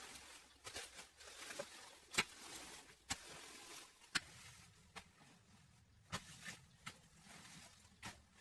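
Irregular sharp clicks and light knocks, roughly one every second, the loudest a little after two seconds in, over faint rustling.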